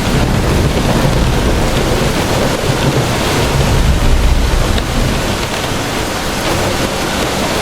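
Heavy rain and gusting wind of a severe thunderstorm: a loud, steady rushing with a deep, churning rumble underneath.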